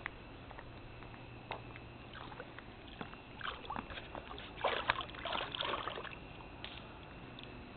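Pool water splashing and sloshing as dogs paw and dip at the water on a pool step: scattered small splashes, clustering into a busier run a few seconds in.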